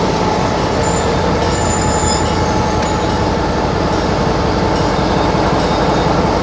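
Train running, a steady loud rumble and rattle with a faint steady high tone.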